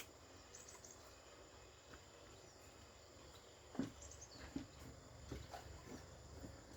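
Near silence, with a faint click at the start and a few soft low knocks about halfway through.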